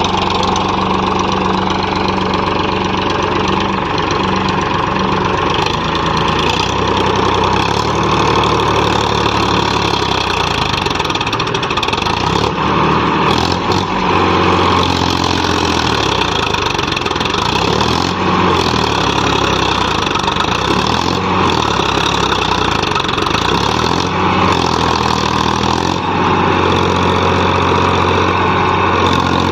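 Powertrac Euro 50 tractor's three-cylinder diesel engine running steadily while working a field, its low note shifting a couple of times.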